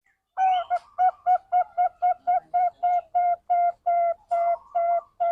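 Zebra dove (perkutut) cooing: one longer opening note, then a quick run of short, even notes, about four a second and slowing slightly.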